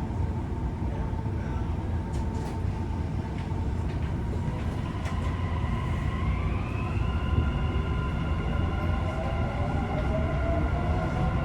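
Dubai Metro train heard from inside the carriage as it pulls away and accelerates. A steady low rumble runs under an electric motor whine whose tones rise in pitch from about halfway through.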